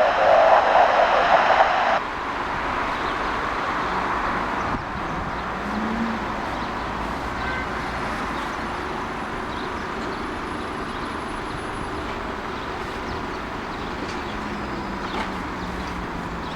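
A burst of airband radio hiss cuts off sharply about two seconds in. After it comes the steady rush of a jet airliner's engines, slowly fading away.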